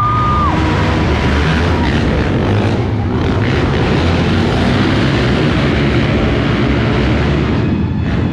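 Monster truck engine running loud and steady with a heavy low rumble. A steady high tone stops about half a second in.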